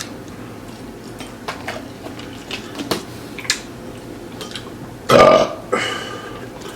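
A loud burp about five seconds in, with a shorter one right after it; before it, soft scattered clicks and smacks of eating.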